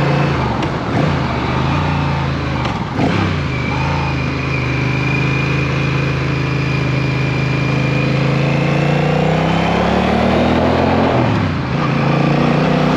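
Motorcycle engine running under way, over wind and road noise. Its note rises with the throttle and dips briefly a few times, at about three seconds in and again near the end.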